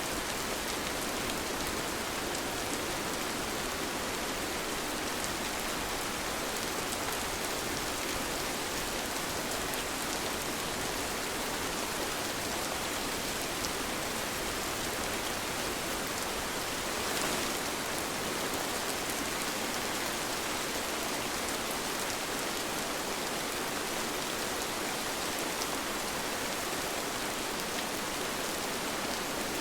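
Steady rain falling, a dense even hiss with many small drop ticks, swelling briefly a little past halfway.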